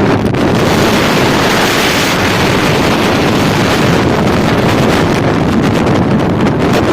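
Strong wind buffeting the microphone in a snowstorm: a loud, steady rushing roar that doesn't let up.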